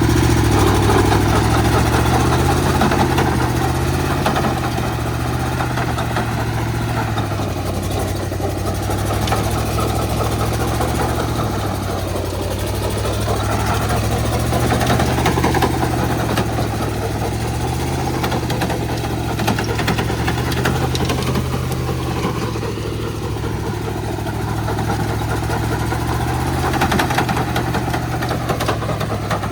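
Diesel engine of a mini cultivator running steadily at a constant low pitch.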